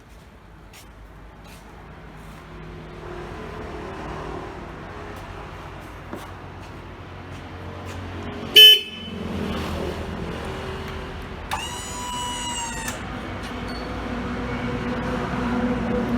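Electric horn of a Xilin QDD25 electric tow tractor: a very short, loud toot about halfway through, then a longer beep of just over a second a few seconds later. A steady mechanical hum grows slowly louder underneath.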